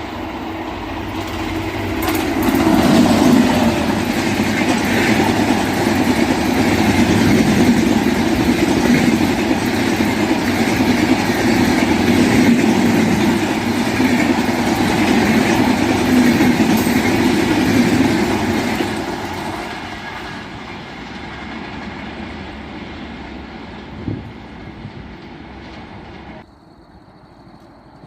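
Express train passing close at full speed, its wheels rumbling on the track. The sound builds over the first few seconds, stays loud for about fifteen seconds, then fades as the train moves away.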